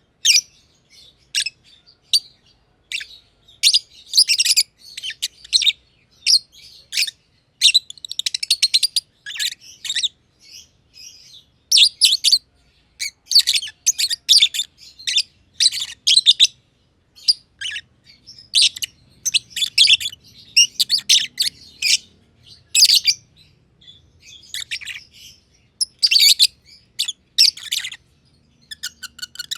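Black-masked (personata) lovebirds, green and green pied, chirping: rapid clusters of short, high-pitched chirps with brief pauses between them.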